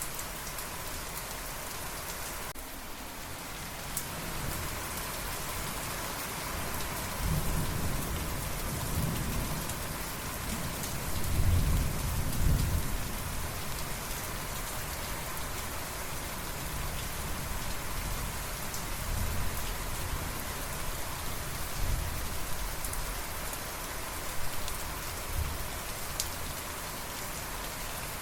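Steady rain falling, with a low rolling rumble of thunder that builds from about seven seconds in and is loudest around twelve seconds. Fainter rumbles follow later on.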